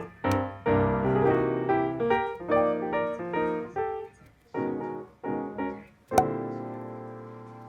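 Background piano music: short phrases of notes with brief pauses, then a chord about six seconds in that is held and slowly fades.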